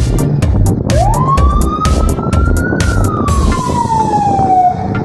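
A siren wailing once: its pitch climbs over about two seconds, then sinks slowly and stops near the end. A low rumble and sharp clicks sound under it.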